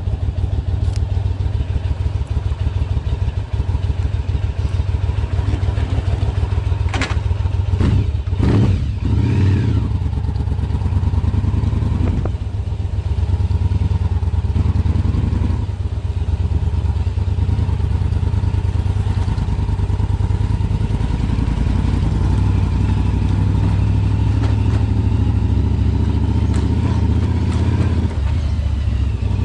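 Yamaha BT1100 Bulldog's air-cooled V-twin running through LeoVince SBK aftermarket silencers, a steady low exhaust rumble at idle. The engine is revved briefly a few times about seven to ten seconds in, then settles back to idle.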